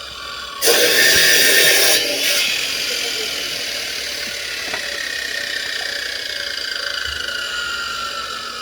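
A motor engine running, its pitch falling slowly and steadily over several seconds. A loud burst of noise, lasting about a second and a half, comes just before it.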